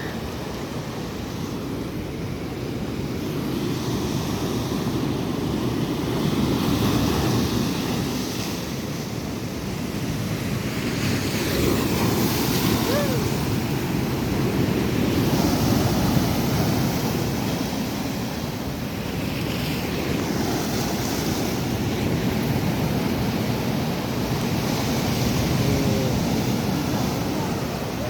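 Sea waves breaking on a beach, the surf swelling and easing every few seconds, with wind buffeting the microphone.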